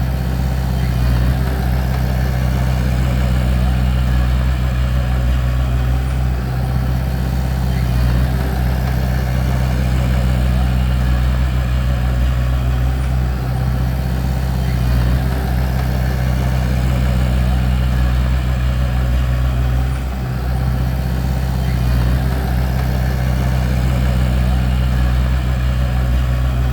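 Bulldozer diesel engine running steadily with a deep, even drone.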